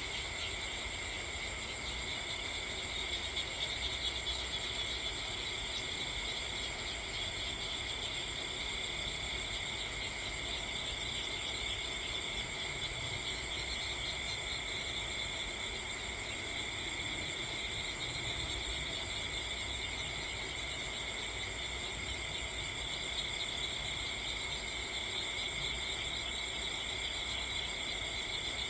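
Steady chorus of crickets chirring without a break, a dense high trill at several pitches, over a faint low rumble.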